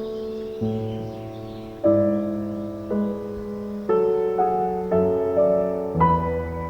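Soft solo piano music: slow, sustained chords and melody notes, with a new note or chord about every second.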